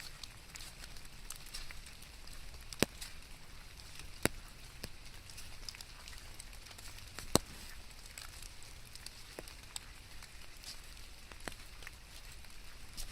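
Light rain: a faint steady hiss with scattered sharp drop ticks, three of them much louder, a little under 3 s, a little over 4 s and about 7 s in.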